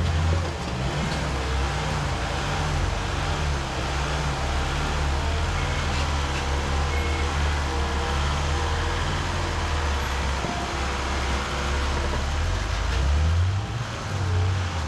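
Off-road rock-crawling rig's engine running under varying throttle, its pitch wavering up and down as it works over the rocks.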